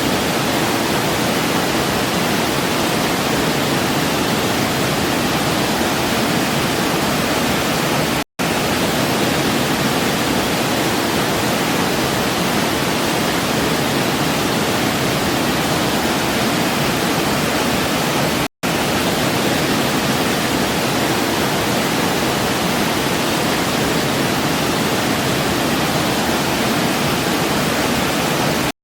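Waterfall: a steady, even rush of falling water. It cuts out for an instant twice, about ten seconds apart, like splices in a looped recording.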